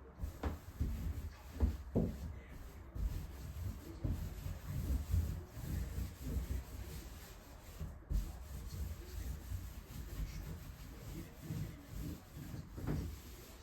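Irregular rubbing and scrubbing strokes on a bathtub, with a few light knocks.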